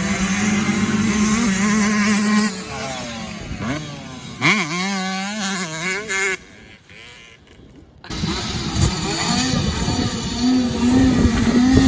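Dirt bike engines on a motocross track: a steady engine note, then revs rising and falling as the throttle is worked. The sound drops away briefly past the middle and comes back abruptly about eight seconds in.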